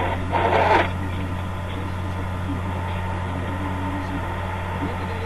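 Steady low drone of a moving car's engine and road noise, with a short, loud, rushing burst about half a second in.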